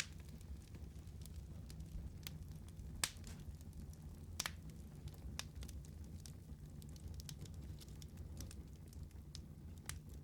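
Wood fire burning with a low steady rumble and scattered sharp crackles and pops, the loudest pop about three seconds in and another about a second and a half later.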